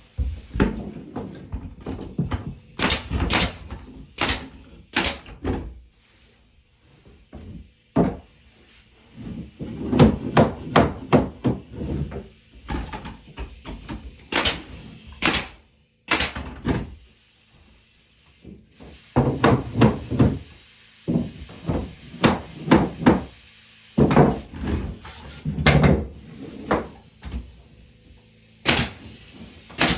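Irregular clusters of knocks and taps on wood, several a second at times, broken by short quiet gaps: hand woodworking such as hammering and fitting boards.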